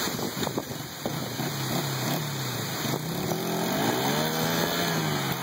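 Dirt bike engine revving: a few short blips, then one long rev that climbs and falls back about four seconds in, over a steady hiss.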